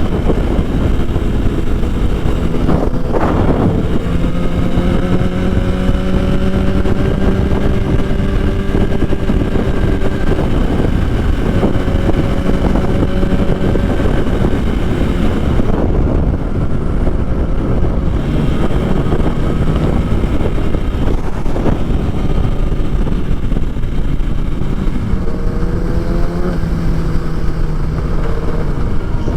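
Motorcycle engine running at road speed under heavy wind rush on the rider's microphone; the engine note climbs slowly, dips, and near the end rises quickly, then drops as the rider shifts.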